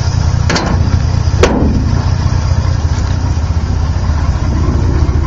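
1955 Chevrolet 235 Blue Flame inline six, fitted with dual carburettors and a split exhaust manifold feeding dual exhaust, idling steadily at what the owner thinks is a slightly low idle. Two sharp clicks sound about half a second and a second and a half in.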